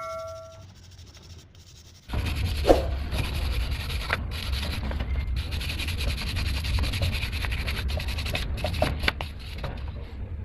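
A brush scrubbing a car engine part, starting about two seconds in and going on steadily with scattered clicks and knocks.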